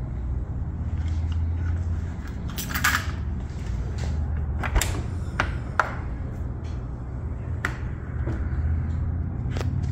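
Lamborghini Countach V12 idling, a low steady rumble, with a few sharp clicks and taps scattered through it.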